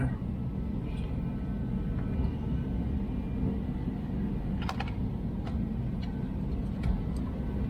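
Steady low rumble with a few light clicks, small taps of handling, about two-thirds of the way in.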